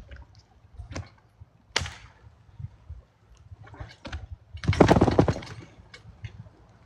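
Several sharp knocks, then a louder burst of noise lasting about a second near five seconds in.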